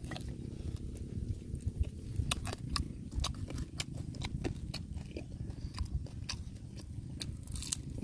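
Close-miked eating: chewing and mouth noises with many short, crisp clicks scattered throughout, over a steady low rumble.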